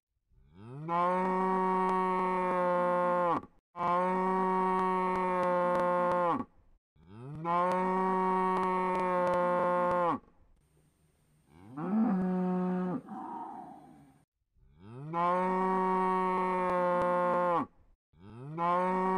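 A cow mooing over and over: five long moos, each rising in pitch at the start, then held level for about three seconds and cut off abruptly, with one shorter call about midway.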